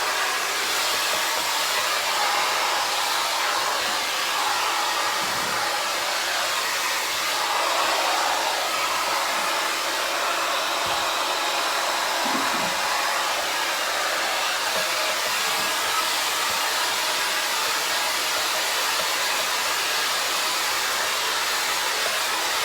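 Hand-held hair dryer blowing steadily on its cool setting, drying a small dog's coat after a bath.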